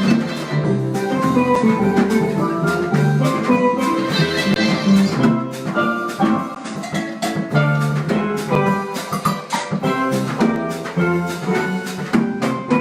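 Harp jazz ensemble playing a Brazilian jazz tune live: bright plucked and struck melody notes over percussion keeping a steady beat.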